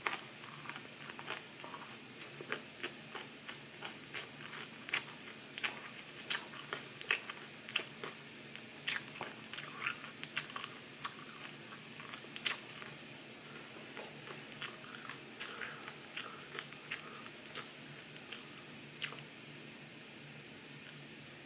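Broccoli being chewed close to the microphone: a quick run of sharp crunches and mouth clicks that thins out past the middle and stops a couple of seconds before the end.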